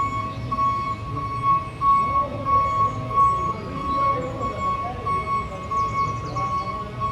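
Small DC electric motor of a DIY miniature tractor running, a steady high whine that pulses slightly over a rattling low rumble.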